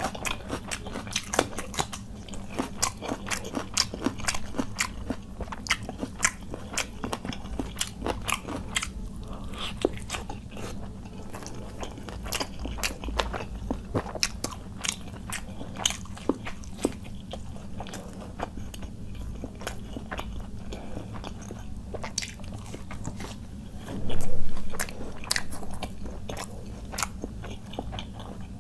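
A person chewing a mouthful of khichuri rice with chicken curry, eaten by hand, with a steady run of small wet mouth clicks. One louder, longer burst of sound comes near the end.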